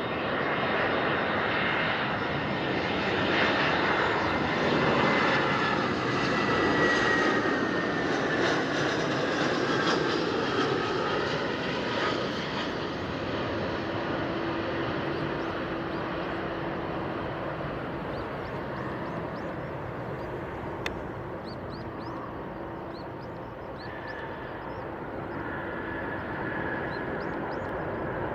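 Jet airliner passing on its landing approach: loud engine noise with a whine that falls in pitch as it goes by, then the sound fades gradually to a distant rumble.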